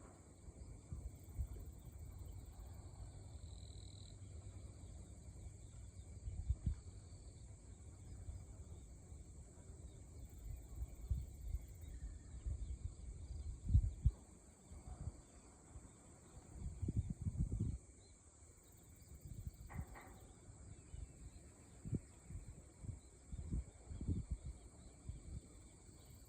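Seashore ambience: gentle waves with low, irregular rumbles, over a steady high hiss. A short bird call comes about twenty seconds in.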